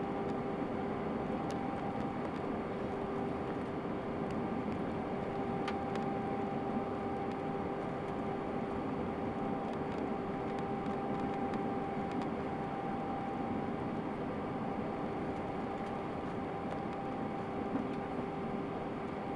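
Steady airliner cabin noise of an Airbus A319 in flight: an even rush of air with two steady engine-like hum tones. The lower tone drops out about two thirds of the way through, typical of a change in engine thrust on approach.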